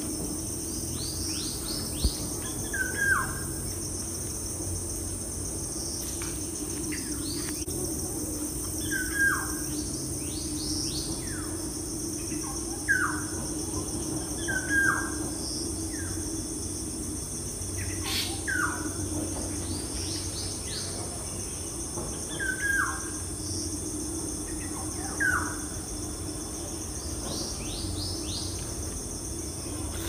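Birds chirping: short downward-sliding chirps in small clusters every few seconds, over a steady low hum and a high hiss.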